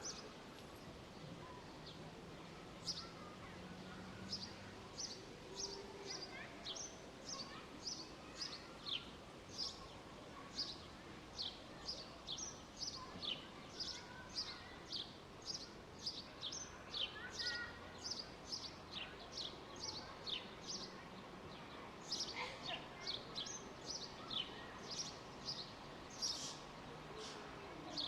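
Park ambience: a songbird repeating short, high, downward-sweeping chirps, about two a second, over a steady low background hum.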